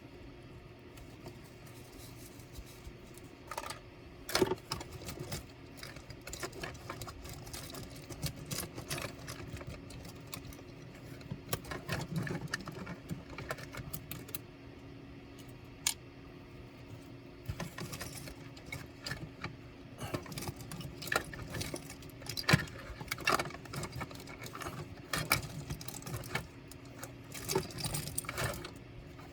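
Irregular clicks, taps and light metallic rattles of laptop parts and small hand tools being handled, over a steady low hum.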